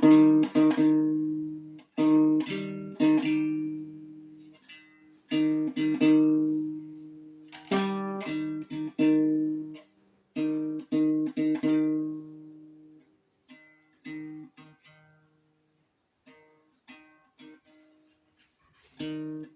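Instrumental music on a plucked string instrument: phrases of strummed chords with short gaps between them. In the second half it thins out to a few quieter, sparser plucked notes.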